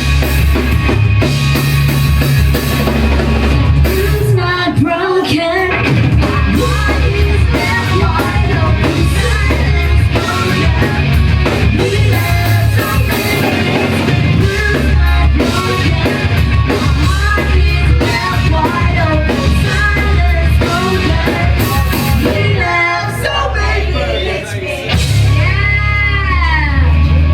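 A live rock band playing loud, with a drum kit, a heavy low bass line and a sung vocal. Near the end a swooping tone glides up and down.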